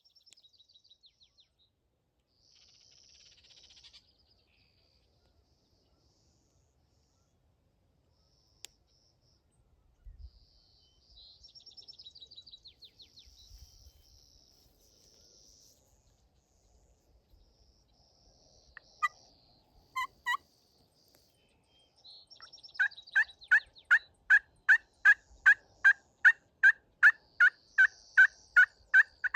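Birds calling: faint high trills in the first half, then from about three-quarters of the way in a loud, rapid, evenly spaced series of identical notes, about three a second.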